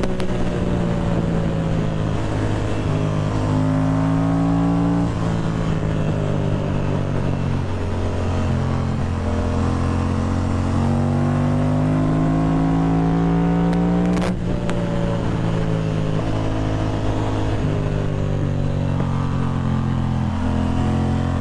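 Ducati Monster's V-twin engine running under way, its pitch rising as it pulls and dropping back at gear changes several times, over wind and road noise.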